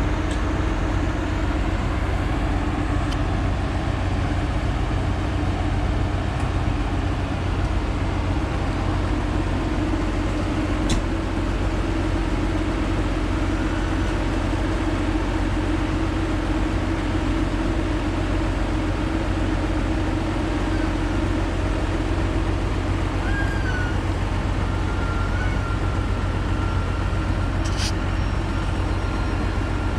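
Mazzotti self-propelled high-clearance sprayer running steadily at work, a continuous engine and machine drone with a steady hum.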